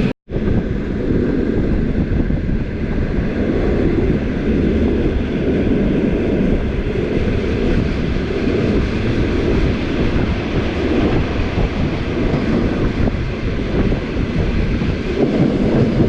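Passenger train running: a steady rumble and rush of the carriage and wheels on the rails, cutting out completely for a moment just after the start.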